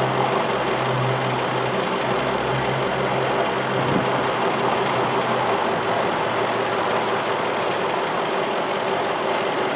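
2003 Infiniti M45's 4.5-litre V8 idling steadily while misfiring: the ignition coils on cylinders 5 and 7 are getting no signal from the computer. A single click comes about four seconds in.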